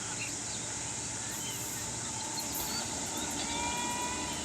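Steady rushing noise of an approaching Indian Railways train, with scattered small chirps over it; a faint, steady horn tone comes in about three seconds in.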